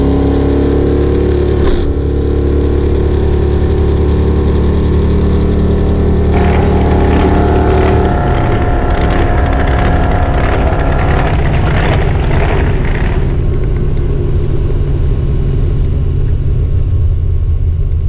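1970 Plymouth Duster drag car's engine running steadily, heard from inside the cabin. For several seconds in the middle a brighter, noisier outdoor engine sound takes over, then the steady in-car engine sound returns.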